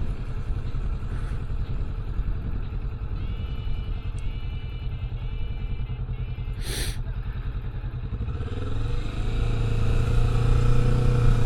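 Kawasaki Vulcan S 650 parallel-twin engine running under way, with wind rush. A short burst of noise comes about seven seconds in, and near the end the engine pitch and level climb as the throttle opens.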